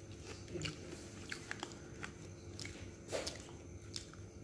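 Close-up eating sounds: chewing chicken satay, with scattered short wet mouth clicks, the loudest about three seconds in.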